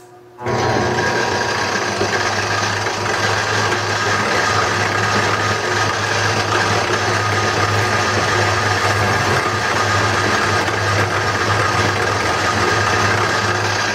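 Wood lathe switching on about half a second in, then running steadily with a constant low motor hum.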